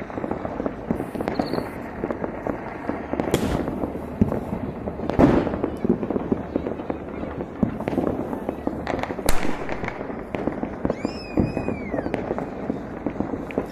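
Many fireworks and firecrackers going off at once in a dense, continuous crackle. Louder single bangs come about three, five and nine seconds in, and whistling fireworks glide up and down in pitch near the end.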